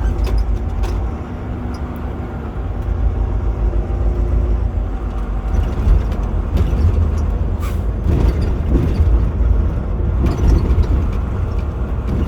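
Semi truck on the move: a steady, loud low rumble of engine and road noise, with a few short knocks scattered through it.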